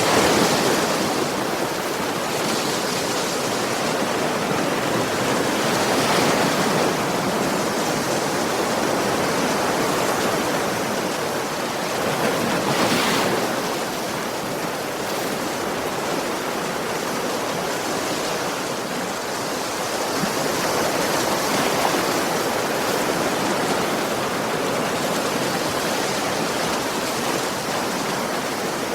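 Ocean waves breaking and washing on a shore, a continuous surf noise that swells every several seconds.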